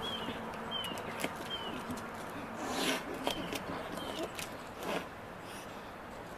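Small birds chirping in the background: short, high, falling chirps repeated every second or so over a steady outdoor hiss. Two brief noisy bursts stand out, one near the middle and one about five seconds in.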